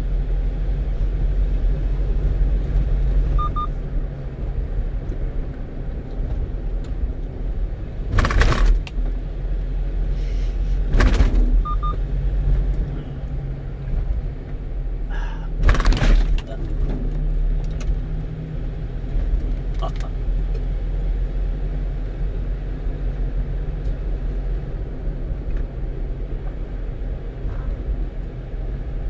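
Steady low rumble of a 1-ton truck's engine and road noise heard from inside the cab while driving, broken by three short loud noises.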